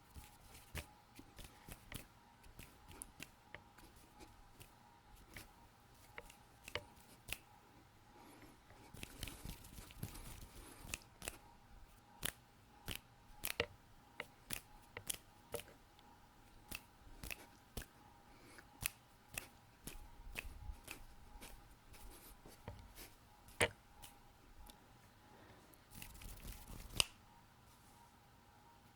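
Close-miked hand sounds: quick, irregular sharp clicks and taps from fingers, with two short stretches of hand-rubbing noise, around ten seconds in and near the end.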